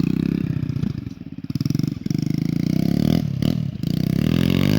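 Pit bike's small single-cylinder engine running and being revved. It eases off about a second in, picks up again, and rises in pitch near the end.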